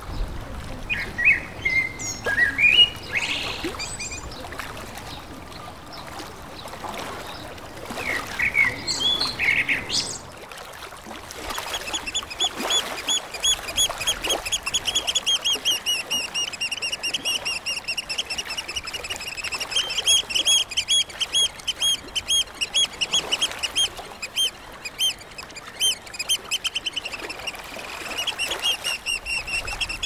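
Birds calling: scattered calls with sliding pitch in the first ten seconds, then from about twelve seconds in a rapid, steady run of high repeated notes, several a second.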